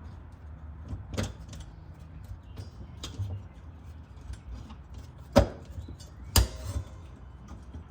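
Scattered clinks and knocks of hand tools and metal parts being handled, with the two loudest about five and a half and six and a half seconds in, over a low steady hum.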